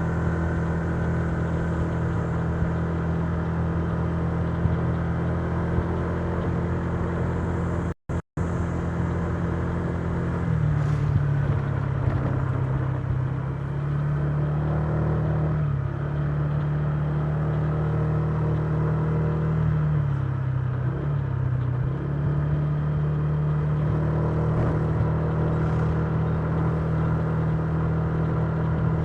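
Honda Giorno 125 scooter's single-cylinder four-stroke engine running steadily at cruising speed, with road and wind noise. The engine note drops a little about ten seconds in, dips twice more, then climbs back near the end; the sound cuts out twice for an instant about eight seconds in.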